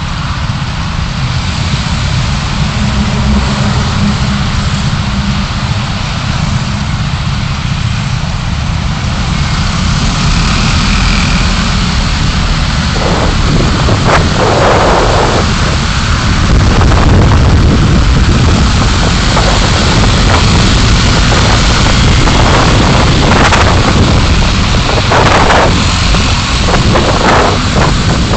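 Steady road and engine noise of a car driving, picked up by a dashcam, with a low rumble throughout. From about halfway through, brief whooshing swells come and go every second or two.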